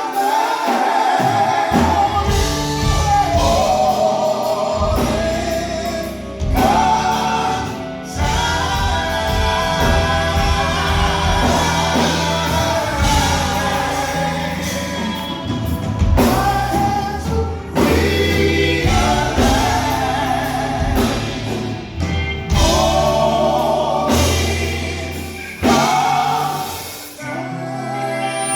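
Gospel choir singing with band accompaniment and a steady bass line.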